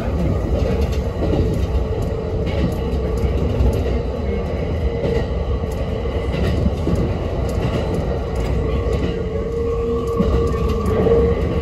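Kintetsu Railway electric train running, heard from inside the front car: a steady rumble of the wheels on the rails with a steady whine that grows a little stronger near the end.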